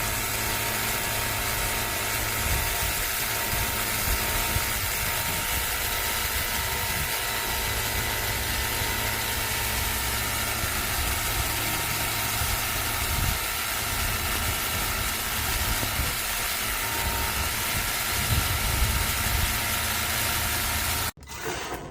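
Ontel Turbo Jet HydroX5 Pro cordless pressure washer running, its battery motor and pump giving a steady whine over the hiss of the water spray; it cuts off suddenly near the end.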